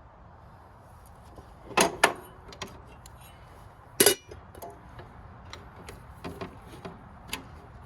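Sharp metallic clinks and knocks of hand tools and small metal parts being handled: two loud ones about two seconds in, another about four seconds in, then lighter scattered taps.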